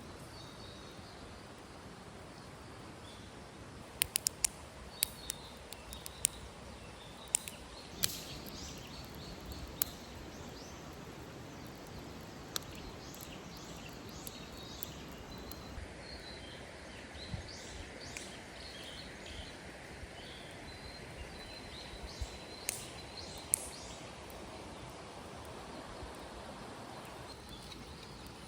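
Small birds calling in short high chirps over a steady outdoor background hiss, with a run of sharp clicks and knocks about four to ten seconds in.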